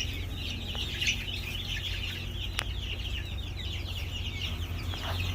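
A pen full of young chickens peeping and cheeping together: a dense chorus of many short, high, falling calls, over a steady low hum. A single sharp click comes about halfway through.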